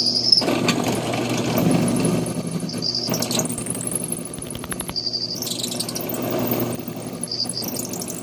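Electric drill motor running steadily while the bit cuts into an aluminium mini bike peg, with short high squeals of the bit biting several times.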